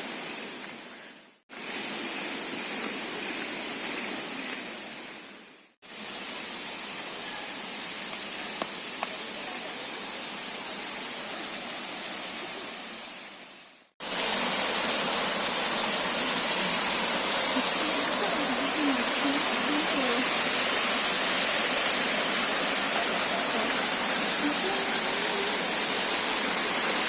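Steady rushing of flowing water, cutting out briefly twice and coming back louder about halfway through.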